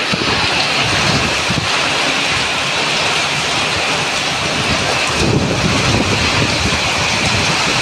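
Heavy monsoon rain pouring steadily onto concrete and foliage, a dense even hiss. Gusts of wind buffet the microphone with a low rumble, stronger from about five seconds in.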